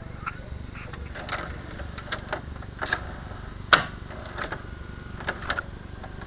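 Irregular clicks and knocks from handling and working on a DVD/VCR combo unit, the sharpest a little before four seconds in, over a low steady hum.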